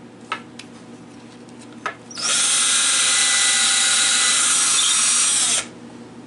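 Power drill boring a preparatory pilot hole, running at a steady speed for about three and a half seconds and then stopping abruptly. Two sharp clicks come before the drill starts.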